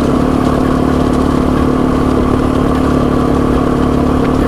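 Yamaha TW200's single-cylinder four-stroke engine running at a steady speed, with a constant pitch and no revving.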